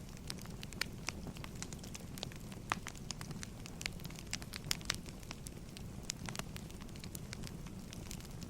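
Firewood burning, with irregular sharp pops and snaps over a low steady rumble.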